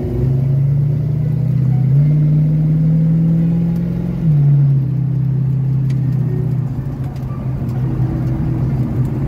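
Car engine heard from inside the cabin at track speed. Its note steps up about two seconds in, drops sharply a couple of seconds later as the car comes off the straight toward a left-hand turn, then runs steady at a lower pitch.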